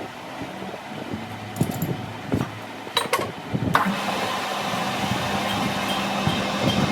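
A few sharp metallic clicks and clinks, then a little over halfway through a click and a machine motor starting up and running with a steady hum.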